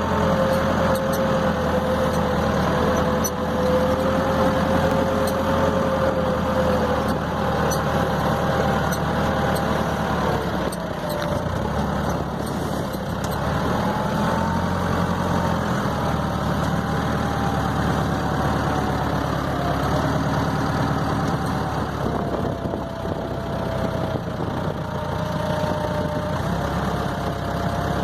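Tractor running steadily as it drives, with a thin whine that drifts slowly up and down in pitch.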